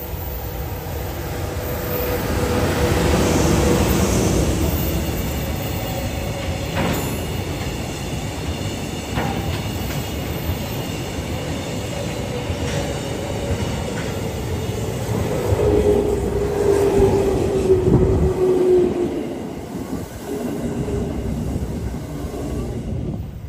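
JR Freight EH200 electric locomotive passing close with a long string of oil tank wagons, loudest about three to four seconds in, the wagons' wheels rumbling and clacking over rail joints. A steady electric whine runs under it and slides lower past the middle, and near the end a passenger electric train runs past close by.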